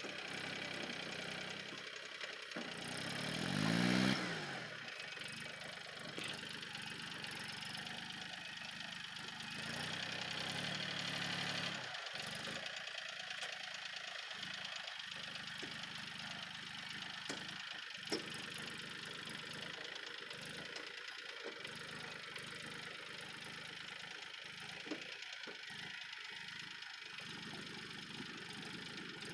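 Tractor diesel engine running, revving up and back down about three to four seconds in and again more mildly around ten to eleven seconds, then running steadily, with a single sharp click about eighteen seconds in.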